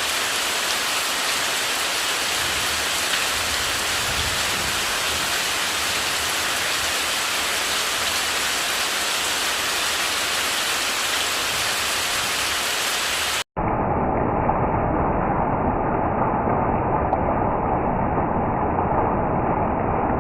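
Steady, even rain hiss. About two-thirds of the way through it breaks off abruptly and gives way to a duller steady rushing noise without highs.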